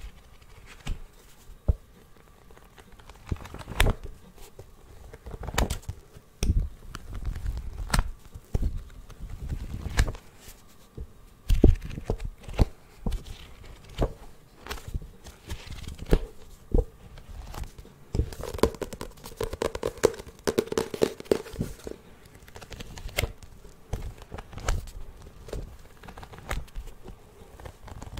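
Close-miked ASMR trigger sounds: irregular taps and clicks on small objects with crinkling and rustling handling noise, busiest about two-thirds of the way in.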